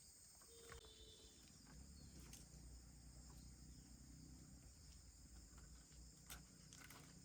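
Near silence with a faint, steady high-pitched chirring of insects, with a few faint clicks.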